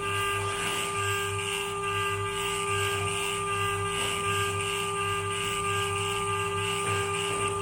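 Spindle of a small desktop CNC machine running steadily while it grinds down a phone CPU chip: a constant high-pitched whine over a low, evenly pulsing hum.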